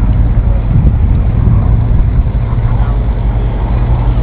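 P-51 Mustang's liquid-cooled V-12 engine running steadily at a constant pitch, loud and deep.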